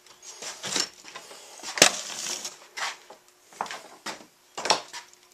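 Wooden bird feeder being handled and lifted: a series of wooden knocks and clatters, the sharpest and loudest about two seconds in.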